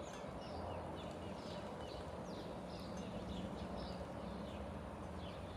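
Small birds chirping, short downward-sliding notes about two or three times a second, over a steady low rumble.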